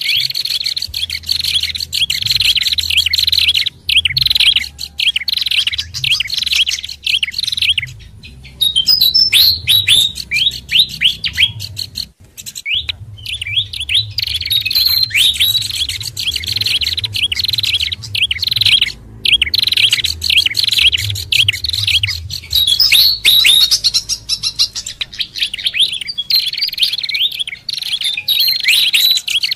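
Bird-lure recording of mixed small-songbird calls, pied fantail, hill babbler and prenjak together, with rapid high chirps and twitters that pause briefly a few times. A low hum runs underneath.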